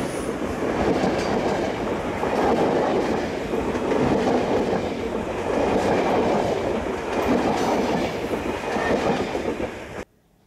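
Passenger coaches of a train rolling past close by, the wheels rumbling on the rails and rising and falling every second or two. The sound cuts off suddenly near the end.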